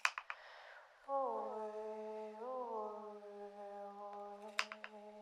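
A single voice toning one long, held hum, sliding down onto the note about a second in and wavering once in the middle. A sharp click comes just before it and another near the end.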